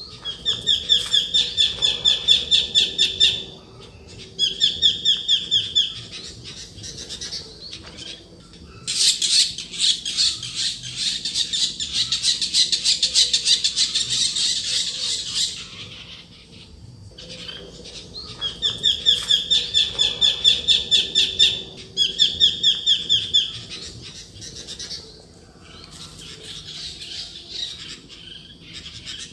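Blue-winged pitta calling in bouts of about three seconds of rapid, repeated, strident notes, several a second. A denser, harsher chattering spell comes in the middle.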